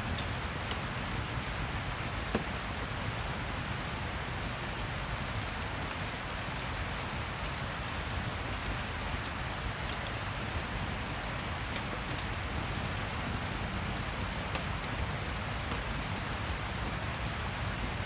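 Rain-and-fireplace ambience: steady rain with scattered faint crackles.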